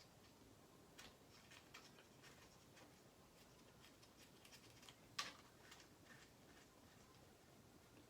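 Near silence with faint scattered small clicks and ticks, and one sharper click about five seconds in.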